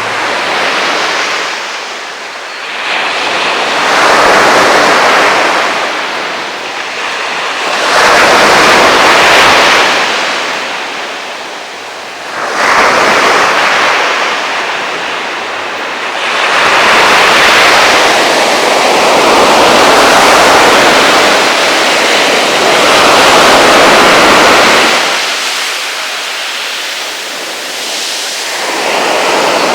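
Ocean waves breaking on a beach: loud surf that swells and falls back every few seconds as each wave comes in and washes out.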